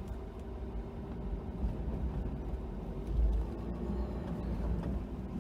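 Ford F-250 plow truck running, heard from inside the cab as it backdrags snow: a steady low rumble that swells briefly a little after three seconds in.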